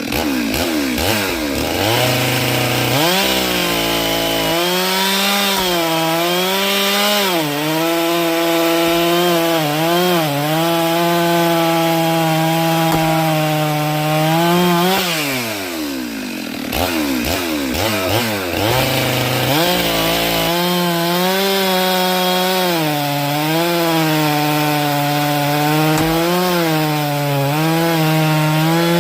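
Chainsaw cutting through firewood logs. It revs up about three seconds in and runs through a long cut with its pitch wavering under load. Past the middle it drops back, revs up again and makes a second long cut.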